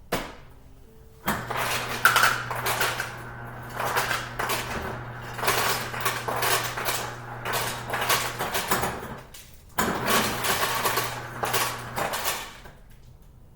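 Refrigerator ice dispenser running in two pushes, a steady motor hum under ice cubes clattering into a glass, with a short break between the two.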